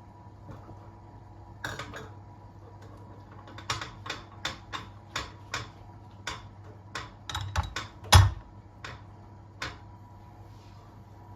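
A series of sharp kitchen taps and clicks, about fifteen over eight seconds and at times about two a second, the loudest a heavier knock with a low thud about eight seconds in, over a steady low hum.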